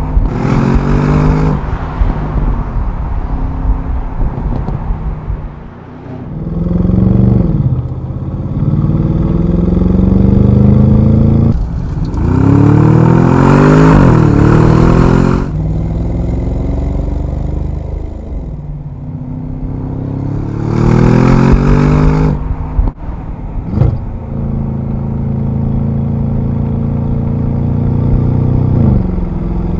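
Audi S6's 4.0 TFSI twin-turbo V8 accelerating hard through the gears. The exhaust note rises in pitch and drops sharply at each upshift, about half a dozen times, with a couple of sharp cracks at one shift about two-thirds of the way in.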